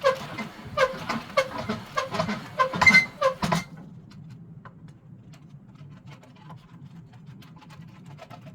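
Welding-wire spool turning on the bolt axles of a wooden re-spooling jig, squeaking about three times a second over a low hum. The squeaks stop about three and a half seconds in, leaving faint ticking as the wire winds.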